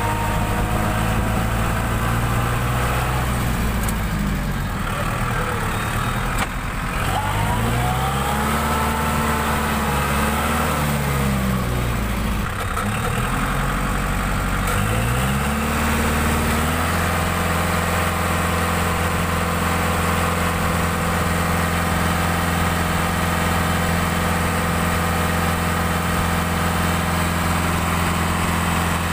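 Tractor diesel engine running under varying throttle: its speed drops and climbs several times, then holds steady for the second half.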